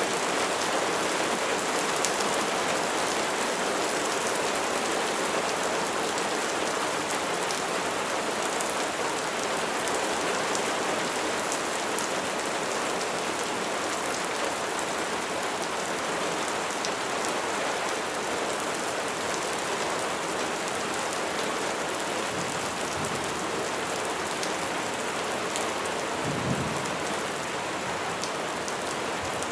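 Steady heavy rain falling on a surface, an even hiss with many small drop ticks. A brief low rumble swells and fades about three-quarters of the way through.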